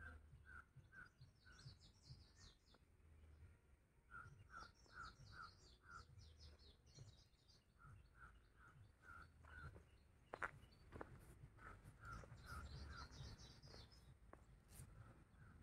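Faint birdsong: one bird repeats a short note in quick runs of five or six, about four a second, every few seconds, over higher twittering from other birds. A low rumble sits underneath, with a single sharp click about ten seconds in.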